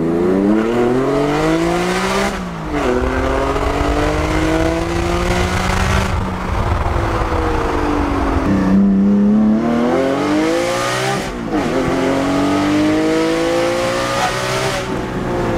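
Porsche 718 GT4's naturally aspirated flat-six, fitted with Cargraphic high-flow headers and an Akrapovic exhaust, accelerating hard through the gears. The revs climb high and drop sharply at each upshift, about three times, and ease off for a couple of seconds midway before pulling again.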